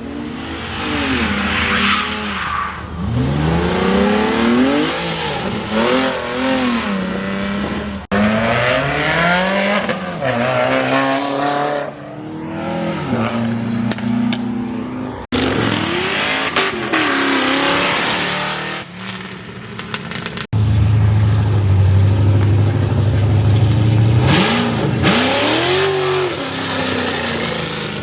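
Car engines revved hard and accelerating, their pitch rising and falling in repeated sweeps, in several clips that cut off suddenly about 8, 15 and 20 seconds in; a steady lower engine note follows the last cut before climbing again near the end.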